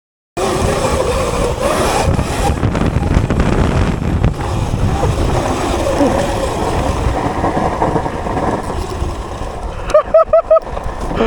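Sur Ron electric dirt bike under hard riding: wind buffeting the microphone and riding noise, with a faint whine from its Sotion FW01 motor wavering in pitch. About ten seconds in come a few short, loud, pitched shouts from the rider.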